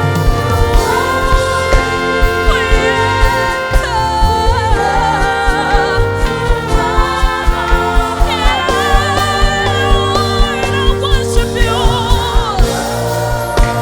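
Live gospel worship music: singers hold long, wavering notes over a full band with a steady drum beat.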